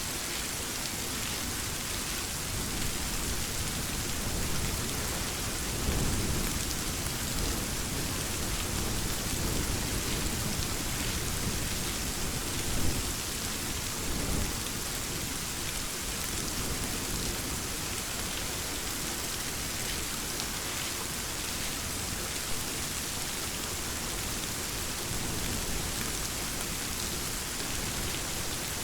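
Steady rain falling in a continuous hiss, with low rolling thunder swelling in about six seconds in and again near the middle.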